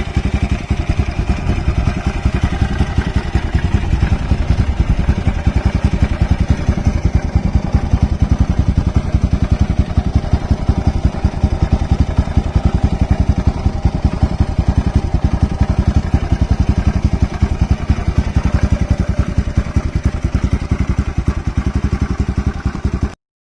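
Bajaj Pulsar NS200's single-cylinder engine running steadily through a modified, loud aftermarket exhaust, a fast even train of exhaust pulses. It cuts off suddenly near the end.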